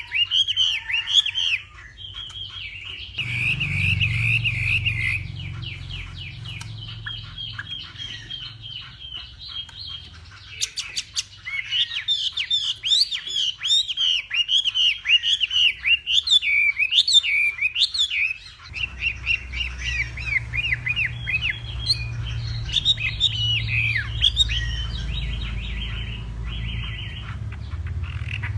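Chinese hwamei singing a long, varied song of quick repeated whistles and warbled phrases, with a low hum underneath for most of it.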